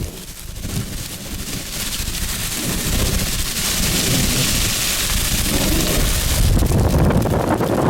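Rear-flank downdraft wind gusts driving rain, a steady rushing hiss that builds over the first few seconds, with wind buffeting the microphone.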